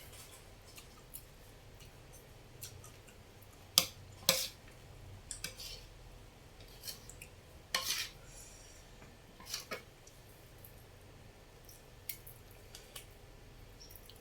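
Eating utensils clinking and tapping against a bowl of noodle soup: a handful of short, sharp clinks at irregular intervals, the loudest about four seconds in and again near eight seconds.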